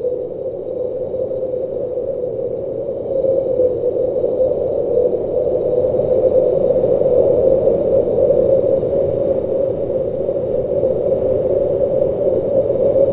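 Blizzard wind blowing steadily with a low, even rushing tone, growing a little louder about three seconds in.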